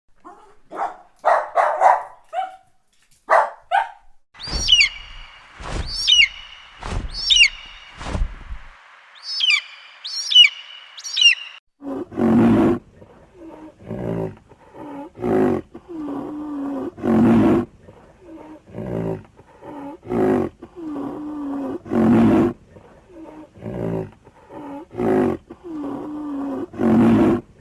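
A series of wild animal calls. Short calls and high, sliding chirps come first. From about twelve seconds in, a run of repeated deep, roar-like calls follows, one every second or two.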